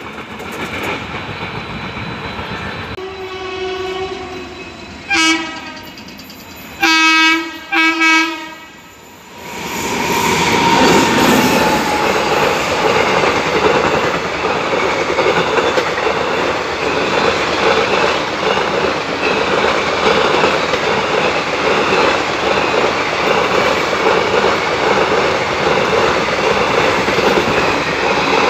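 Locomotive horn sounding four times: one long blast, a short one, then two more. Then an express train of ICF passenger coaches runs through at speed, its wheels clattering steadily over the rail joints.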